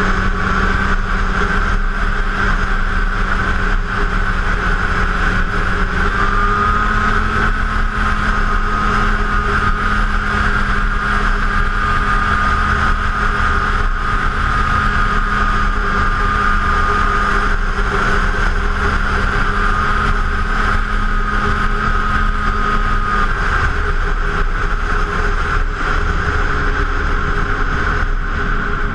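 2006 Arctic Cat F7 Firecat Sno Pro snowmobile's two-stroke twin running steadily at trail speed, with a high whine held over the engine note.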